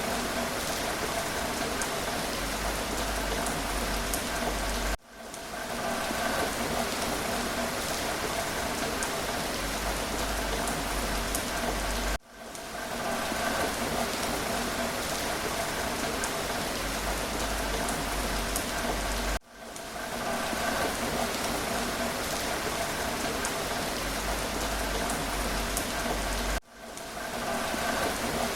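Steady rain falling with a patter of drops. The sound cuts out abruptly about every seven seconds and swells back within half a second, the mark of a short rain recording played on a loop.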